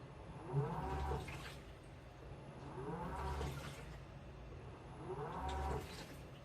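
Washing machine running its wash cycle: the motor whines up in pitch as it turns the drum, and the water and laundry slosh, over and over about every two and a half seconds.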